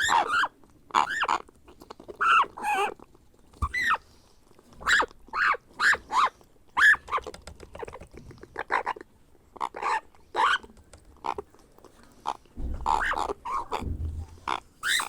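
African grey parrot chick calling over and over in short, rasping, pitch-bending cries about twice a second, the begging calls of a hand-fed hatchling.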